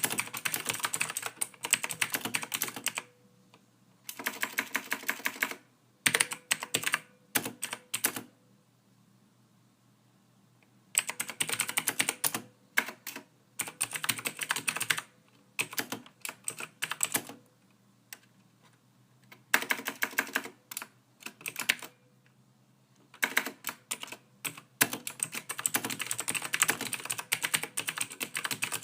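Typing on a computer keyboard: rapid runs of soft key clicks that come in bursts of a few seconds, broken by short pauses.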